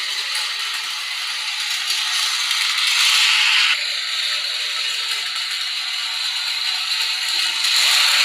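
Small geared electric motor of a toy model locomotive whirring and rattling as it runs along the track, a steady buzzing mechanical noise that changes level abruptly twice.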